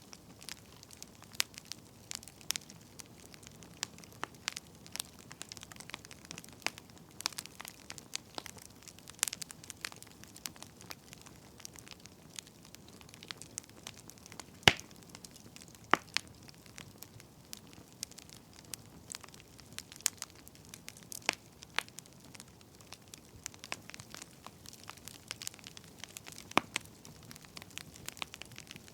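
Firewood burning, crackling with irregular sharp pops and snaps over a soft steady hiss, one pop louder than the rest about halfway through.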